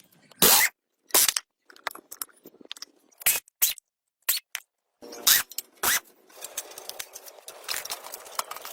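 About seven short, sharp scraping strokes in quick succession with dead silence between them, followed from about five seconds in by a low, steady rustle of handling noise with small clicks.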